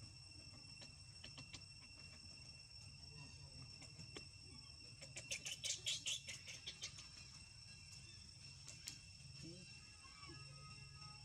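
Faint, steady insect chorus of crickets chirping at a few fixed high pitches, with a quick run of louder clicks about halfway through.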